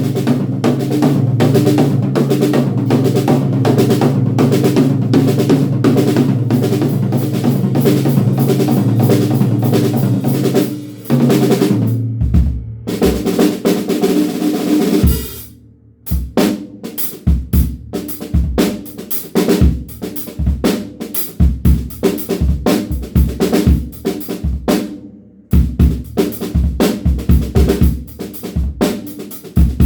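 DW Frequent Flyer drum kit played hard. For about the first eleven seconds there are fast, dense strokes over a steady low ring. After a couple of short pauses comes a groove of separate bass drum and snare hits, with another brief stop about two-thirds of the way in.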